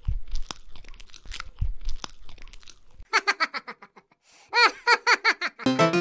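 Cartoon chewing sound effect of the gorilla eating bananas: crunchy munching for about three seconds. Then a quick run of short pitched chirps, and background music comes in near the end.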